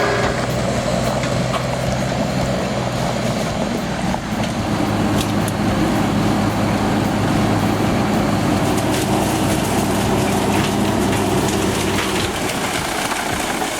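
Large drum wood chipper running steadily: a low engine hum with mechanical noise over it.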